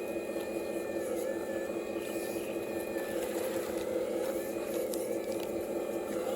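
Small electric motors of a radio-controlled Cat excavator whirring steadily, with a higher whine that dips and rises in pitch several times as the machine works.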